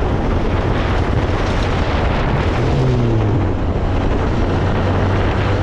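Car driving at speed: a steady low engine drone under road and wind noise, with a short falling tone about three seconds in.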